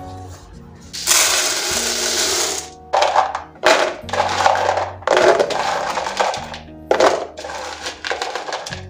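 Dry food such as grains or pulses poured into storage containers: a long rushing pour, then several shorter pours and rattles, over soft background music.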